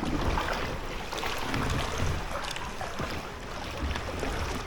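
Kayak paddling: water splashing and dripping off the paddle, with wind rumbling on the microphone.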